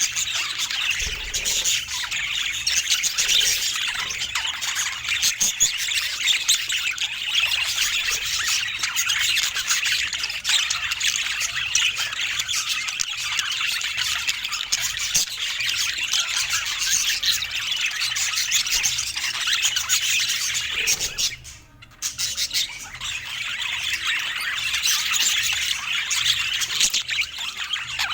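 A flock of budgerigars chattering continuously, a dense mix of warbles, chirps and squawks; the sound drops away for under a second about three quarters of the way through, then resumes.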